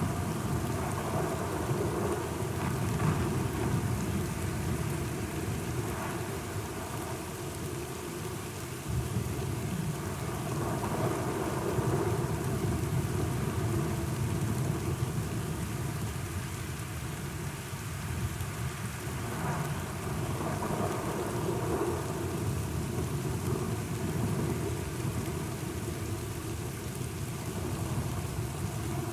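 Thunderstorm ambience: steady rain hiss with low rolling thunder that swells and eases several times.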